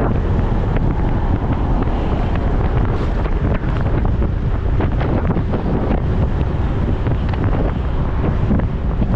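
Wind rushing over the microphone of a moving motorcycle, with a steady rumble of engine and road noise underneath.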